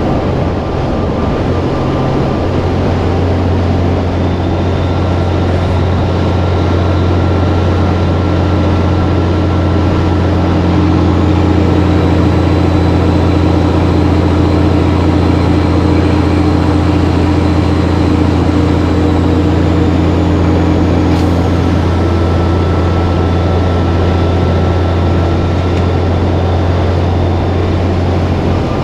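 Cabover semi truck's diesel engine running at a steady pitch, a low, even drone that grows slightly louder about a third of the way through.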